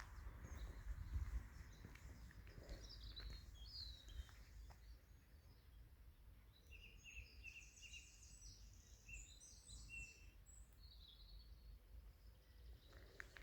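Faint woodland birdsong: several small songbirds chirping and trilling, busiest in the middle and later part, over a low rumble.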